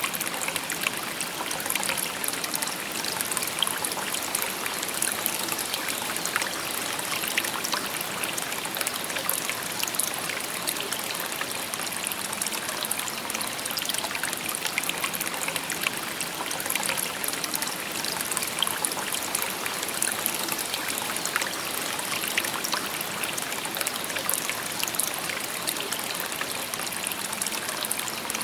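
Shallow river babbling over stones: a steady wash of running water, full of small splashes and trickles.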